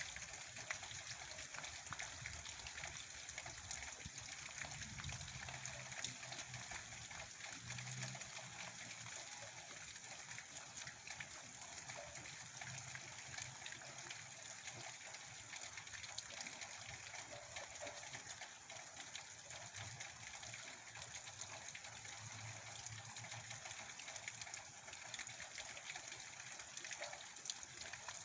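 Steady rain falling: a constant hiss scattered with many small drop ticks.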